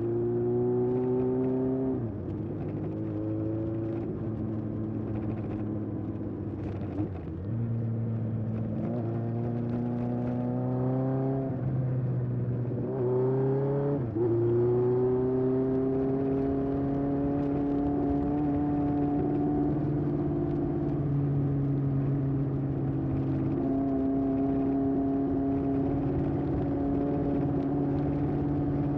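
Exhaust of a 1981 Honda CB750F's air-cooled inline-four through a period Yoshimura muffler under way. The pitch climbs and drops back at each upshift, about three times in the first half, then the engine holds a steady cruise.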